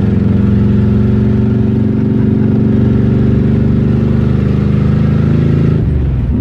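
V8 muscle-car engine running hard at steady, high revs. Its note holds level, then drops briefly near the end and picks up again.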